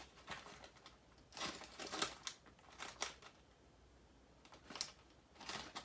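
Rummaging through a container of small items: scattered clicks, taps and rustles, with a quiet pause in the middle.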